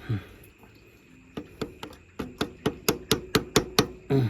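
A hammer tapping in a rapid series of sharp strikes, a few scattered ones at first, then about four or five a second for a second and a half before stopping.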